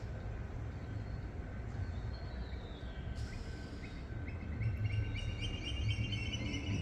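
Steady low rumble, with rapid, repeated high bird chirps coming in about two-thirds of the way through and growing louder.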